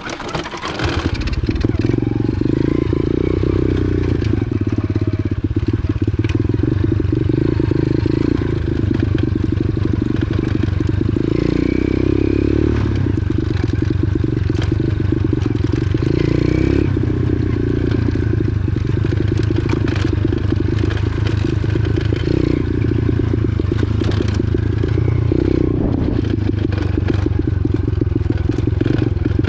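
125cc X-Pro pit bike's four-stroke single-cylinder engine catching about a second in after a roll start, then running steadily as the bike is ridden, with the revs swelling briefly twice.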